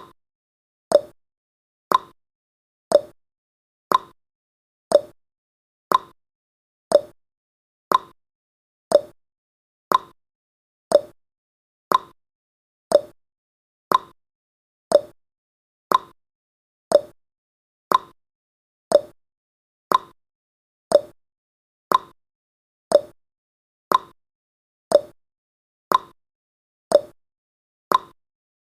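Countdown timer's clock-style ticking sound effect, one short sharp tick every second at an even pace.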